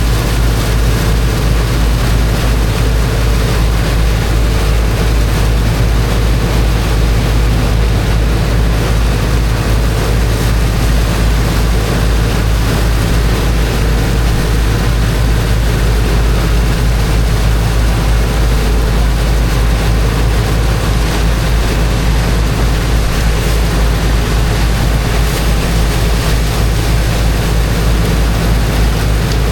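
A high-pressure water pump's engine running steadily, with the constant rush of its water jet blasting into sand.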